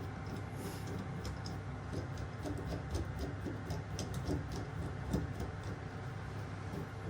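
Scattered light clicks and ticks, irregular and strongest in the middle, over a steady low hum.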